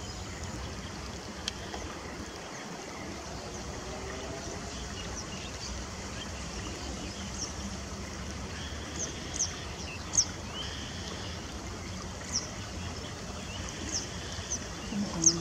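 Short, sharp, high-pitched bird chirps, a few at first about seven seconds in and then more often toward the end, over a steady outdoor background hiss.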